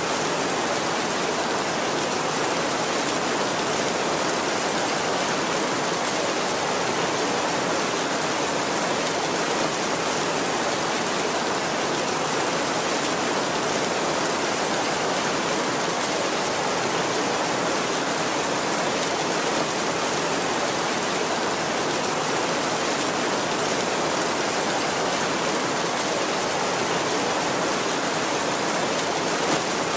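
Heavy rain falling steadily on a tin roof, an even dense hiss with no thunder heard.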